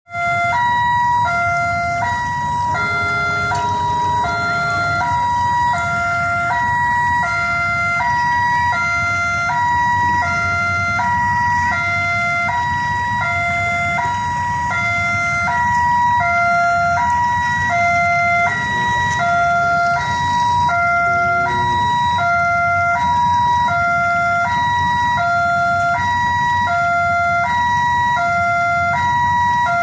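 Railway level-crossing warning alarm sounding a steady electronic two-tone chime, a lower and a higher note alternating evenly without a break, signalling that a train is approaching. A low rumble runs underneath.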